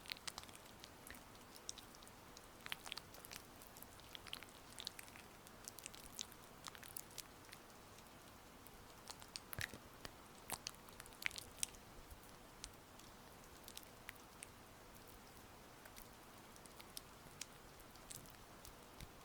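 Oiled hands massaging skin close to the microphone, making soft, irregular wet, sticky clicks over a steady hiss of rain.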